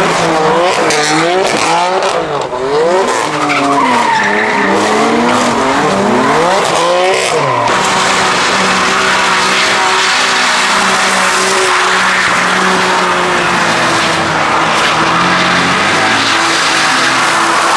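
Car engine revving hard, its pitch swinging rapidly up and down as the car drifts with tyres skidding. After about eight seconds the engine holds a steady high note under a continuous tyre screech, as in a donut or burnout.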